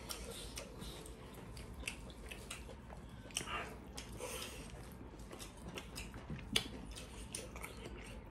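Faint chewing and wet mouth smacks of two people eating rice and pork curry with their hands, in irregular small clicks and squishes, a few of them sharper.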